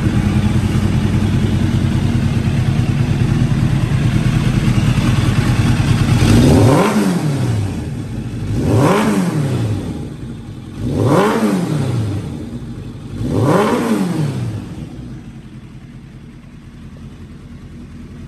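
1989 Kawasaki ZX-10 inline-four running through an aftermarket Yoshimura exhaust: a steady idle, then four throttle blips about two seconds apart, each revving up and falling back, before it settles to a quieter idle near the end.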